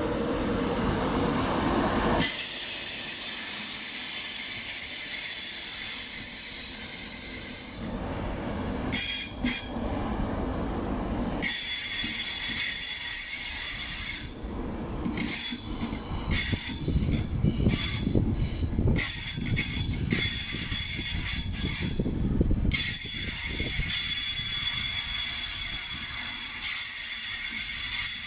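A train running on the rails, with low rumbling and a high-pitched metallic squeal that comes and goes several times.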